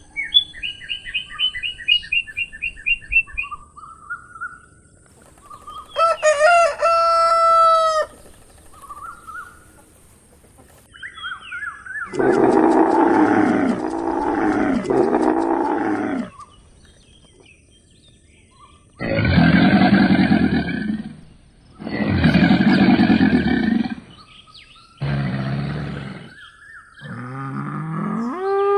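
A series of farmyard animal calls: quick repeated high chirping notes, then a rooster crowing once, followed by several long, loud, low calls.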